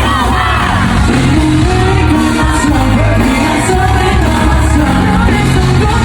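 Live K-pop concert: a loud pop song with singing over a heavy beat, played through a large hall's sound system.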